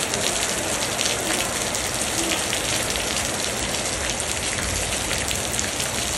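Steady rain falling on wet concrete pavement: an even hiss of many small drop impacts.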